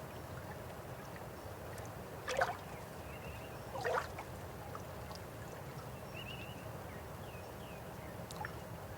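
River water flowing steadily, with two louder splashes or gurgles about two and a half and four seconds in.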